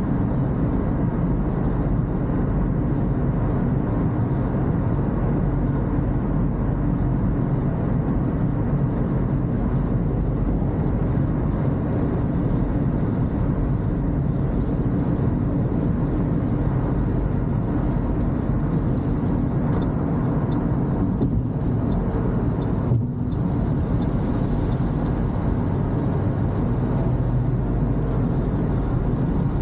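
Steady road and engine noise inside a Toyota Corolla's cabin as it drives on wet roads, with a brief dip in the noise about two-thirds of the way through.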